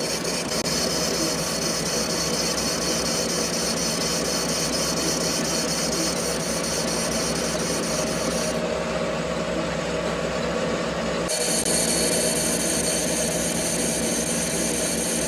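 Steady noise of metalworking machinery in a gear factory, with a grinding or rasping tool sound over a constant hum. A high hiss cuts out about eight and a half seconds in and comes back about three seconds later.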